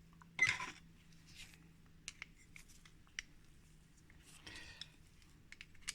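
Small metal clicks and brief scrapes of a screwdriver working screws out of a fan-motor housing, with a short louder scrape about half a second in and another near the end. A faint low steady hum lies underneath.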